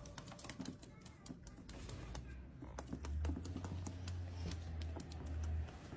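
Rapid, irregular light clicks and taps, joined from about two seconds in until near the end by a low rumble.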